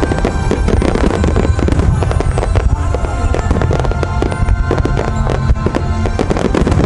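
A dense barrage of fireworks bursting in rapid, overlapping bangs and crackles, with music playing underneath.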